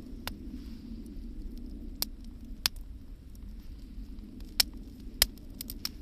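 Wood bonfire crackling over a steady low rumble, with sharp separate pops every second or so, two louder snaps near the end.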